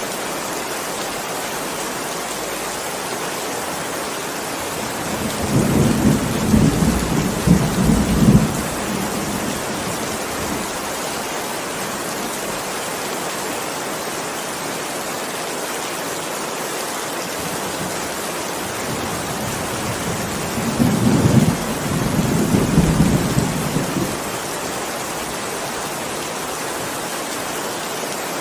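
Heavy rain falling steadily, with two rolls of thunder rumbling about five seconds in and again about twenty seconds in, each lasting three to four seconds.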